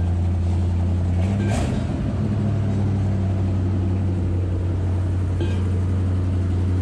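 Ford F-350 dump truck's V8 engine running at a steady speed, with a brief clunk about a second and a half in.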